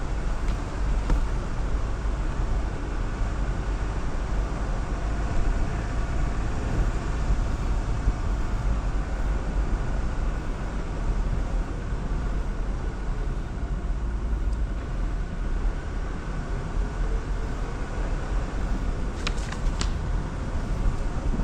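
Jeep Wrangler Rubicon driving slowly on a snowy off-road trail: a steady low rumble of engine and tyres. Near the end come a couple of brief high squeaks.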